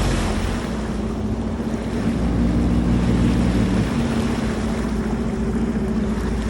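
BRP Sea-Doo jet ski engine running at a steady cruising speed, its pitch shifting slightly a couple of times, over a steady hiss of water and wind.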